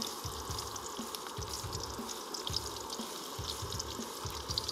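Chopped garlic and onion sizzling in a little olive oil in a wok, a steady fine crackle of small pops. A faint, regular low beat of background music sits underneath.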